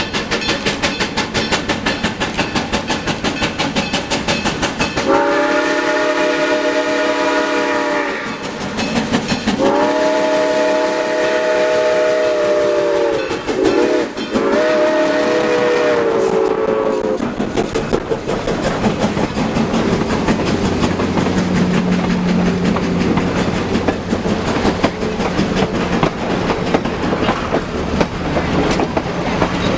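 S160 steam locomotive No. 1702 sounding its multi-tone whistle in three blasts, the first two long and the third shorter, over the steady sound of the train running.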